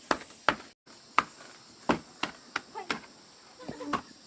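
A series of sharp, irregularly spaced knocks or chopping strikes, roughly two a second, with a brief cut-out of all sound just under a second in.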